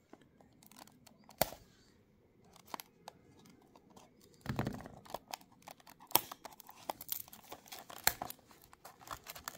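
Packaging of a boxed diecast model car being handled and opened: a few scattered small clicks and taps, then denser rustling, crinkling and clicking from about halfway through.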